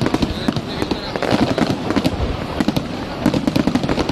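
Aerial fireworks display going off: a dense, unbroken run of bangs and crackles, several a second, with a deep rumble beneath.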